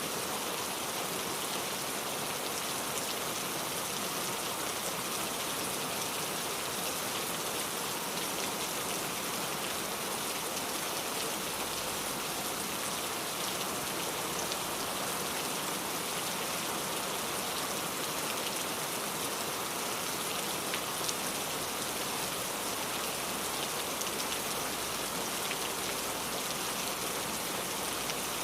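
Steady rainfall, a continuous hiss of many drops pattering on a surface, with faint individual drop ticks.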